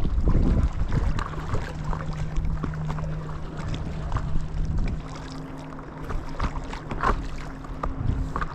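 Paddling a stand-up paddle board: paddle strokes and water lapping and splashing around the board, with wind rumbling on the microphone at first. A steady low hum runs under it from about a second in, joined by a second, slightly higher hum about halfway through.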